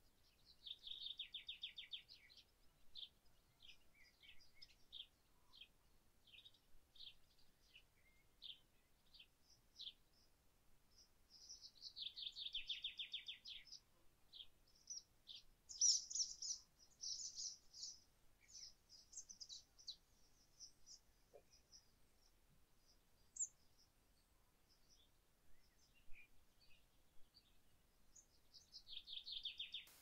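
Several wild songbirds singing. One bird repeats a rapid trill of many quick notes, each phrase about a second and a half long, three times: near the start, around the middle and at the very end. Other birds add scattered chirps, and a brighter, higher burst of song comes a little past the middle.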